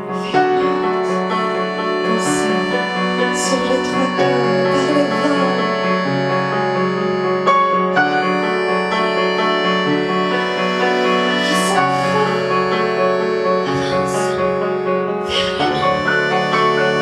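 A rock band playing live, with a keyboard prominent over sustained chords.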